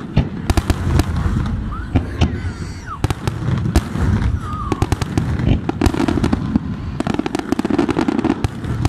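Fireworks display: aerial shells bursting in a rapid, unbroken string of bangs and crackles over a low rumble.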